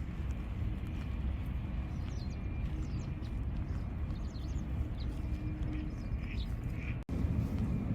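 Outdoor park ambience: a steady low rumble with small birds chirping now and then. The sound drops out for an instant about seven seconds in.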